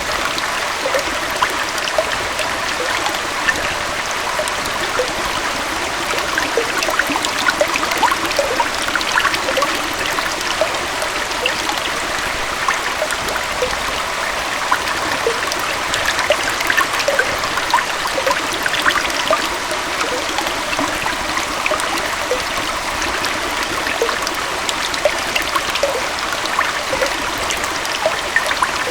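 Small waterfall and stream flowing steadily, a continuous rush of water with many small splashes and trickles.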